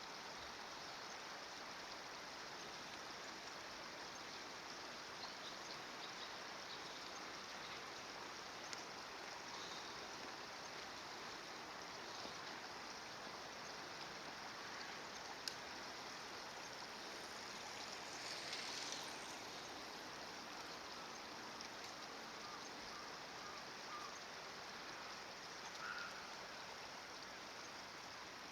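Steady rush of running stream water, with a single sharp click about halfway through and a few faint brief sounds.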